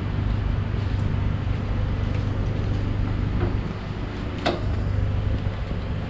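BMW E92 engine idling steadily with a low, even hum, with a couple of faint clicks midway.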